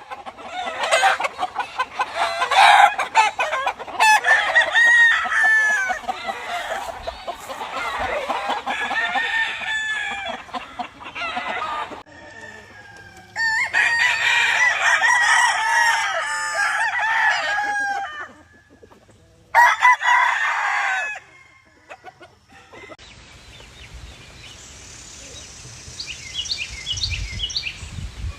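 Many gamefowl roosters crowing and clucking over one another, in several loud stretches broken by short gaps. Near the end it drops quieter, with faint high chirps.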